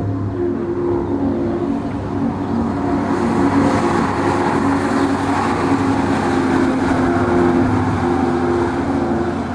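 M818 6x6 military truck's diesel engine running, its sound growing louder and harsher about three seconds in.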